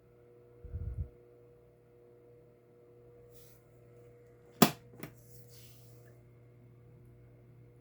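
Electric fan motor running with a steady hum. There is a low thump about a second in, and two sharp clicks about half a second apart near the middle, the first one loud.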